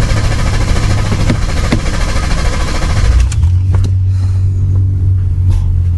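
Ford F-150 pickup's starter cranking the engine with regular beats. About three seconds in, the engine catches and runs with a steady low rumble.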